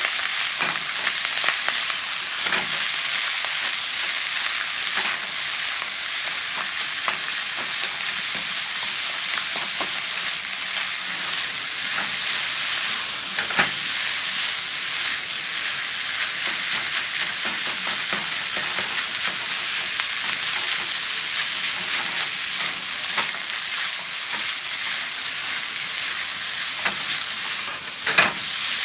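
Vegetable fried rice sizzling on high heat in a nonstick skillet as a slotted spatula stirs and tosses it: a steady high frying hiss with scraping, and a few sharp knocks of the spatula against the pan, the loudest near the end.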